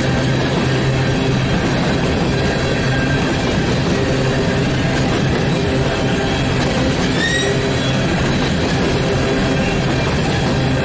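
Hopper cars of a BNSF coal train rolling past close by: a steady, loud rumble of steel wheels on rail, with faint wheel squeal.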